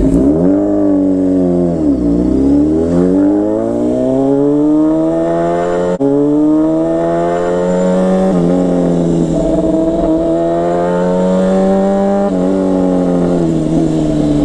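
Motorcycle engine pulling away and accelerating: its pitch drops over the first couple of seconds, then climbs steadily, with gear changes about six, eight and twelve seconds in, each followed by the pitch climbing again.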